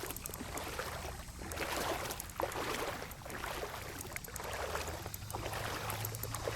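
Legs wading through shallow floodwater, the water swishing and sloshing with each stride, about one stride a second.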